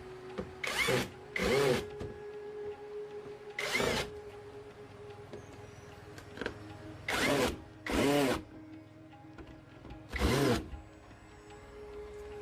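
Small power tool motor, such as a drill or electric screwdriver, whirring in six short bursts of about half a second each, two close together near the start, one around four seconds in, two more around seven and eight seconds, and one around ten seconds, over a faint steady hum.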